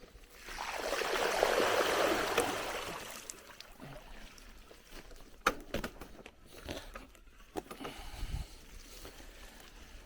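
Bicycle riding along a forest track: a rush of noise swells and fades over about three seconds, then the bike rattles with scattered clicks and knocks over rough ground.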